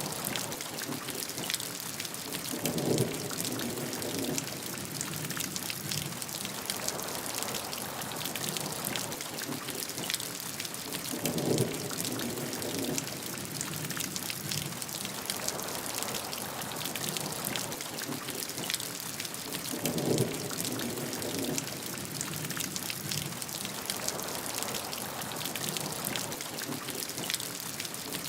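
Steady heavy rain, a dense patter of drops hitting a surface. Three times, about eight and a half seconds apart, a brief louder low swell rises out of the rain.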